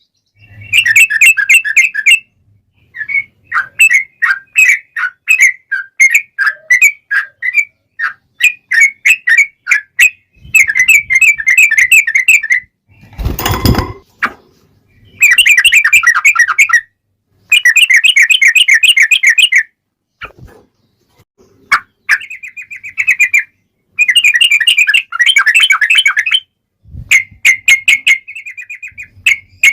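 Yellow-vented bulbul (trucukan) singing: fast bubbling, rolling phrases of one to two seconds each, repeated with short pauses. There is one loud burst of noise about 13 seconds in.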